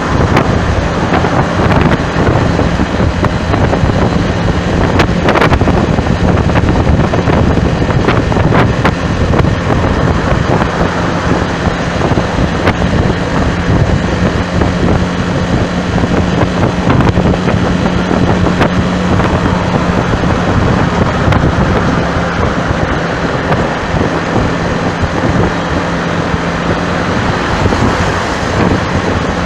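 Loud wind noise buffeting the microphone over vehicle traffic, with a steady low hum that stops near the end.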